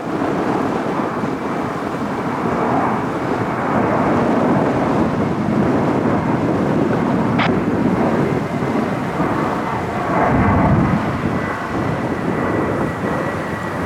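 Jet airliner engines rumbling loudly as a heavy aircraft passes, a steady deep roar that swells and eases, with a faint high whine in the later seconds.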